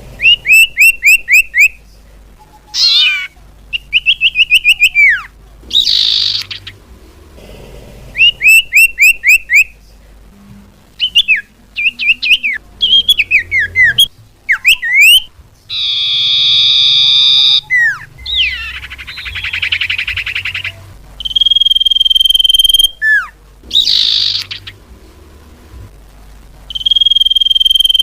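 Loud bird-lure recording of common iora (cipoh) calls: quick runs of falling chirps, a harsh buzzing chatter about midway, and long steady whistles near the end.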